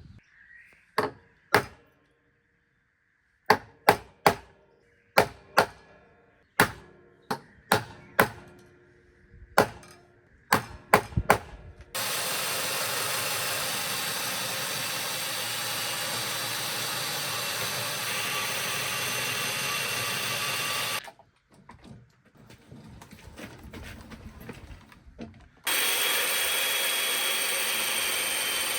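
About a dozen sharp knocks on timber, roughly one a second, then a chain mortiser running steadily for about nine seconds. It cuts off suddenly and starts again near the end.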